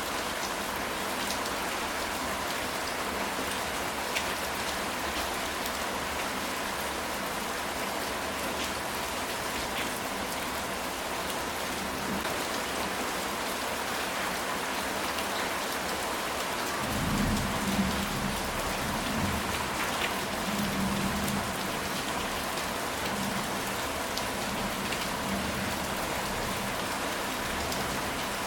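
Steady rain falling on a ceramic tile roof, an even hiss with scattered drop ticks. About 17 seconds in, a low rumble of distant thunder rolls for several seconds and fades.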